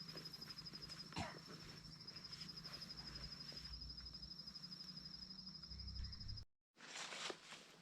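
Insect trilling steadily at a high pitch, a fast even pulse, over outdoor background noise, with a single sharp knock about a second in. The trill cuts off abruptly six and a half seconds in, and soft rustling and footsteps follow.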